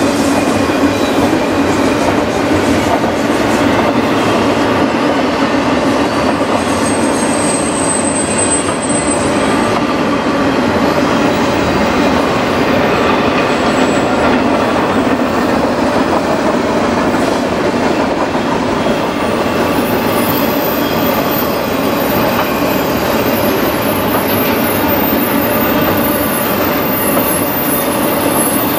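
Double-stack container cars of a CN intermodal freight train rolling past: steel wheels running on the rails with a steady, continuous noise.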